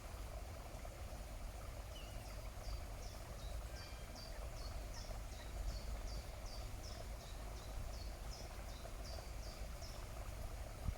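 A small bird singing a run of short, high, repeated notes, about two or three a second, starting about two seconds in and stopping near the end, over a steady low background hum.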